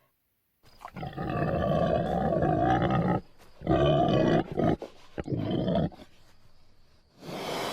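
A pig calling: three harsh, drawn-out calls, the first about two and a half seconds long and the next two shorter, then a short breathy noise near the end.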